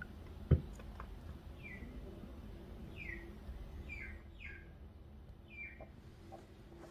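A bird calling: short falling chirps repeated about once a second, over a low steady hum. A single sharp thump about half a second in is the loudest sound.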